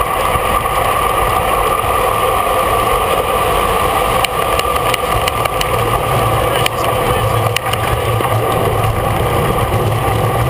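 Steady rushing of a road bike at race speed: wind buffeting the bike-mounted camera's microphone over tyre and drivetrain noise, with a few sharp clicks or knocks.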